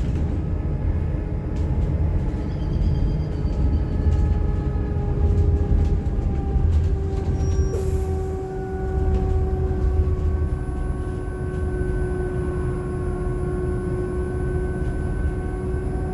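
Electric bus running along: the electric drive's steady whine, in several tones whose pitch drifts gently with speed, over continuous road rumble.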